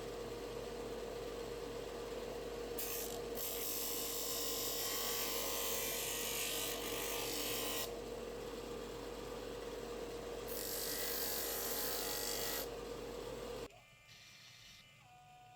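A small electric power tool runs with a steady hum while it grinds or sands a part. A rasping noise comes and goes in long passes as the tool is pressed on and lifted off the work. The tool cuts off suddenly near the end.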